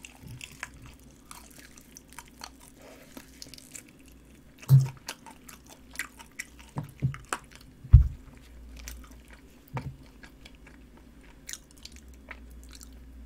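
A person chewing and biting a honey-glazed chicken drumstick, with small wet mouth clicks and two louder low thumps about five and eight seconds in.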